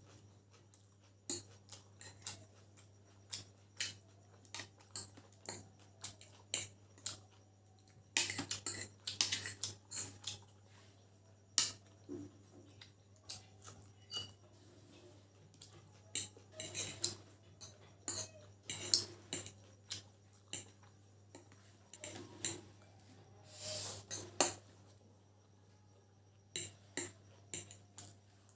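Cutlery clinking and scraping on a plate of chowmein noodles during eating, in short irregular clicks with a couple of busier spells of scraping.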